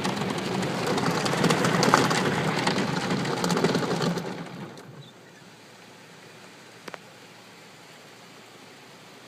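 Automatic car wash jets spraying water onto the car, heard from inside the car as a loud, even rain-like drumming. About four and a half seconds in, the spray fades away, leaving a faint steady hiss, with a single click near the end.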